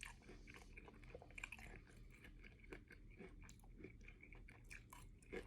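Faint close-up chewing: a mouthful of teriyaki rice bowl with chicken, steak and vegetables being chewed, with many small irregular wet clicks.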